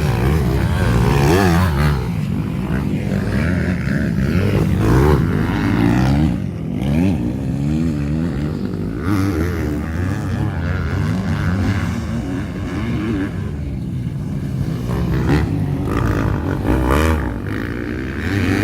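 Tuned drag-race motorcycle engines revving, pitch swinging up and down over and over, with more than one engine sounding at once at times.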